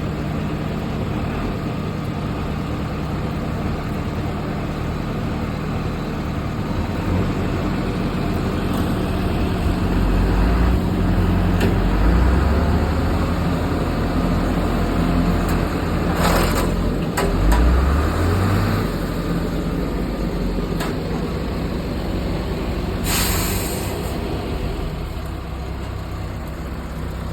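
Heavy diesel engines of an excavator and a truck stuck in mud running steadily, revving up twice in the middle as the excavator pulls on the truck. Two short, sharp hisses break in partway through.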